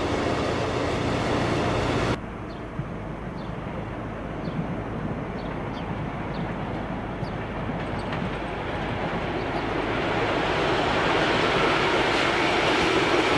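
A train running past with a steady low engine note, cut off suddenly about two seconds in; then a quieter low rumble with a few short high chirps, swelling steadily as another train approaches.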